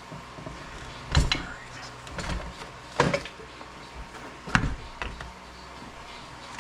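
Several separate knocks and clunks of hand tools and metal engine parts being handled and set down on a workbench, about one a second.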